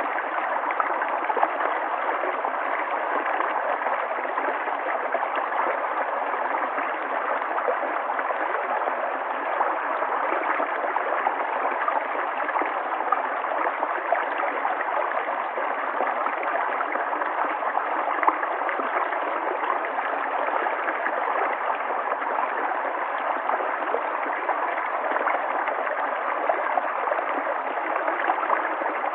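River water flowing, a steady, even rush without pause or change.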